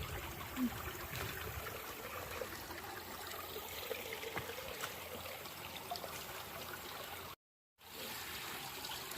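A low-flowing creek trickling steadily. The sound cuts out completely for about half a second near the end.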